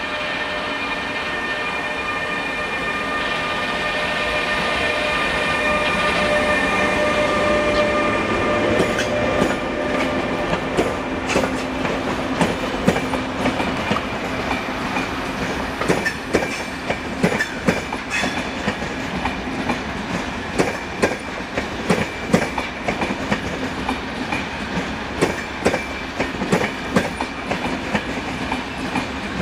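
ÖBB Railjet train passing on the adjacent track. For the first several seconds it gives a whine of several steady tones over a rumble. From about nine seconds in, the wheels click rapidly and irregularly over rail joints and points.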